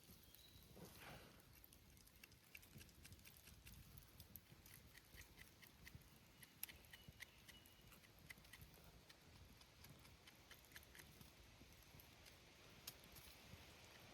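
Faint scattered clicks and crackles over a quiet background, with a brief high chirp about seven seconds in.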